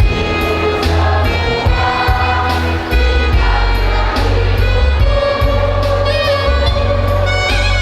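High school choir singing, with a heavy low bass under the voices; from about five seconds in the voices hold a long note.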